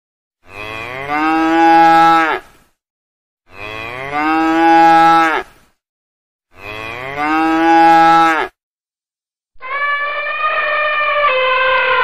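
A cow mooing, the same two-second moo heard three times about three seconds apart. Near the end a different, steadier and higher call starts and falls in pitch as it ends.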